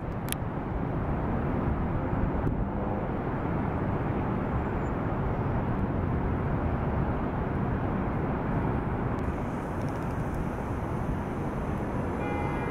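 Steady low rumble of city traffic, engines and tyres of vehicles held up at the intersection. Near the end a siren begins faintly.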